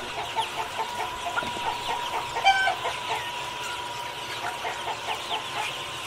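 A flock of chickens clucking, with many short calls overlapping in quick succession and one louder call about two and a half seconds in, over a steady high hum.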